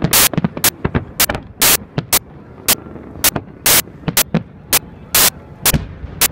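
Aerial fireworks bursting in quick, irregular succession, a sharp bang about every half second. The loudest bangs overload the recording.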